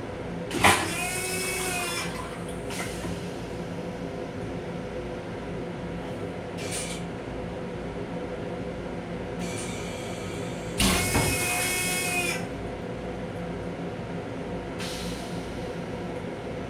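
Steady running hum of an MTA Long Island Rail Road M7 railcar, heard in its small restroom. A sharp clunk comes about half a second in and another about eleven seconds in. Each is followed by a squealing hiss lasting a second or two, with shorter hisses in between.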